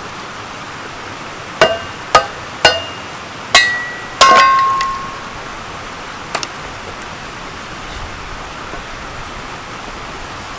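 Hammer blows driving a piece of wood down onto the blade of a ductile cast-iron Kindling Cracker splitter: five sharp metallic strikes with short ringing in about three seconds, the last ringing longest, then a lighter knock a couple of seconds later. A steady hiss sits underneath.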